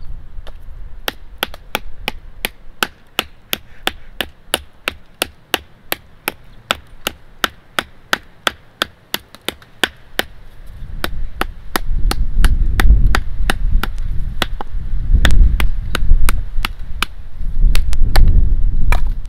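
Small Scandi-grind fixed-blade knife, a Cold Steel Finn Hawk, chopping into a piece of wood: sharp, evenly spaced strikes about two and a half a second, many in a row. From about halfway a loud low rumbling noise rises under the chopping.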